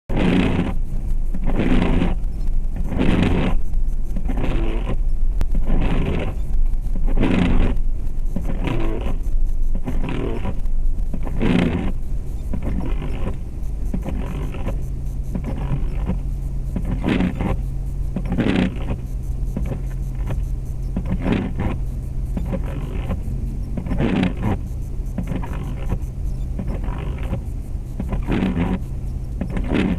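2004 Jeep Grand Cherokee's 4.7 L V8 running as the SUV is driven, heard from inside the cabin as a steady low hum. Short noisy bursts come about once every one to one and a half seconds.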